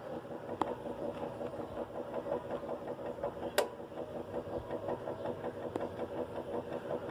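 GE Profile top-load washing machine with an agitator, running on its single-speed motor: a steady mechanical hum with a fast, regular pulsing. Two sharp clicks come through, about half a second in and again halfway through, the second the louder.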